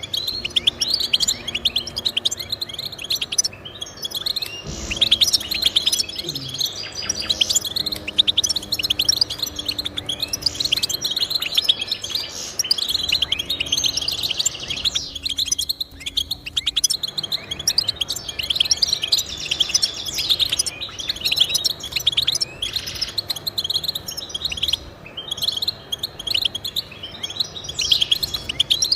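Goldfinch singing: a fast, continuous twittering song of rapid chirps and trills, with a short lull around the middle.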